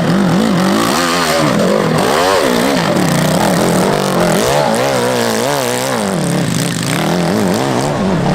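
Motorcycle engines running hard, their pitch rising and falling quickly again and again as they rev, over a steadier engine drone.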